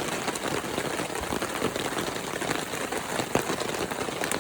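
Heavy rain falling steadily, with many scattered drops ticking on nearby surfaces.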